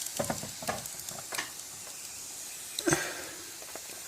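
Wet work at a brick chimney opening: irregular short wet scrapes and dabs as the masonry is wetted and worked for mortaring, with one sharp knock a little before three seconds in.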